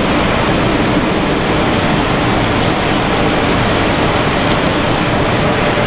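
Steady, loud machinery noise of a running waved potato chip production line, with motors and a mesh belt conveyor running continuously.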